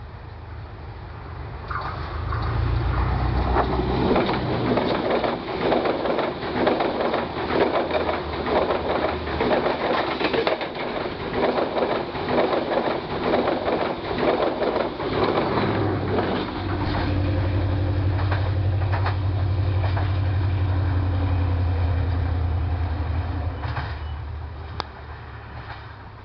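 Sri Lanka Railways Class S13 diesel multiple unit passing close by at speed, its wheels clicking in a fast steady rhythm over the rail joints. About two-thirds of the way through, the clicking gives way to a steady diesel engine drone as a power car goes by, and the sound fades near the end.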